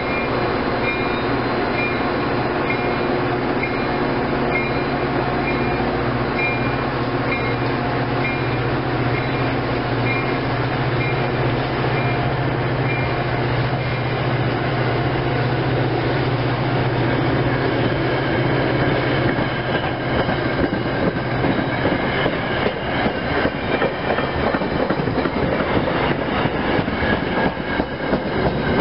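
Metra bilevel commuter train moving past: a low steady drone, with a ding repeating about twice a second for the first several seconds. From a little past halfway, the clickety-clack of wheels over rail joints grows louder, with some wheel squeal.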